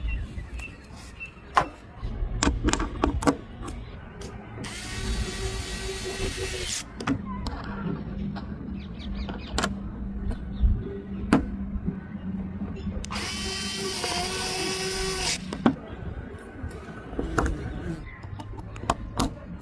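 A small motor whirring in two bursts of about two seconds each, among scattered clicks and knocks of parts being handled.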